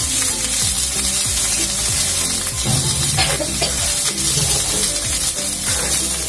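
Chopped vegetables sizzling in hot mustard oil in a steel kadhai, over background music.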